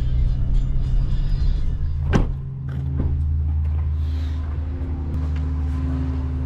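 Pickup truck engine running with a steady low hum. A single sharp knock comes about two seconds in, and the hum settles slightly differently after it.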